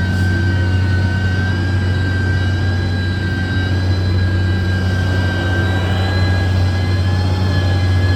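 Heavy construction machine's engine running steadily, with a low hum and a high steady whine over it.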